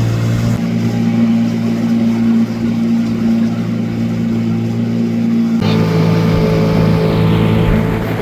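Boat motor running steadily; about six seconds in its note shifts abruptly to a different pitch, as with a change of throttle.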